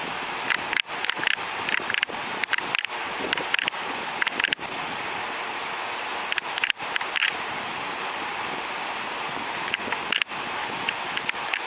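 Short, high bird calls in scattered clusters over a steady hiss.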